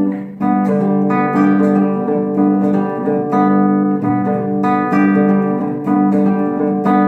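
Flamenco-style acoustic guitar playing an instrumental passage of quick plucked and strummed notes.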